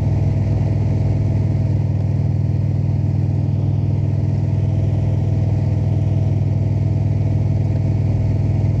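Indian Super Chief Limited V-twin motorcycle engine running steadily at cruising speed, with a constant low drone and road noise.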